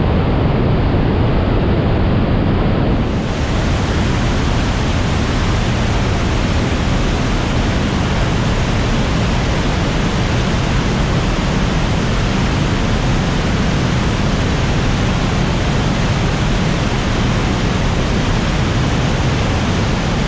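Trümmelbach Falls' glacier meltwater rushing down inside the mountain: loud, steady, heavy water noise, echoing in the rock gorge. About three seconds in the sound turns brighter and hissier.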